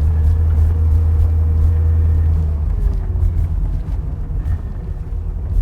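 A pickup truck driving, with a steady low engine and road drone that eases off slightly about three seconds in.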